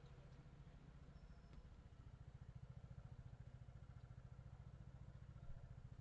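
Faint, steady low hum of a car's engine and running gear while driving, pulsing rapidly and evenly.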